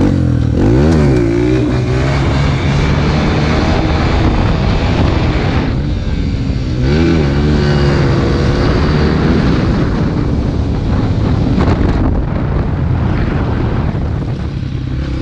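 Dirt bike engine running under way, its pitch dipping and climbing again twice, about a second in and about seven seconds in.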